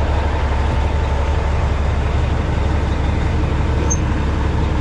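Diesel truck engine idling steadily, a constant low rumble, while the truck builds air pressure.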